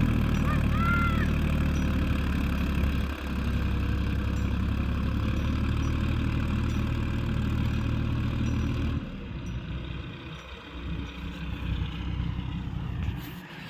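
Tractor engine running steadily, with a brief dip about three seconds in. The engine sound stops abruptly about nine seconds in, leaving quieter, uneven noise.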